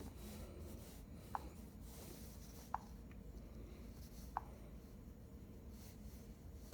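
Three faint short clicks about a second and a half apart over a low steady hum, as the CRM4000 injector tester's controls are worked.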